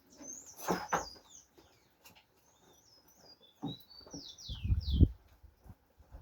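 A small bird singing a run of quick, high chirps, each sliding downward in pitch. About four and a half seconds in there is a loud, low rumbling thump.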